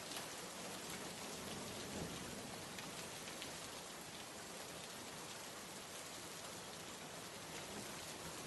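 Steady rain ambience: an even hiss of rainfall dotted with light drop ticks.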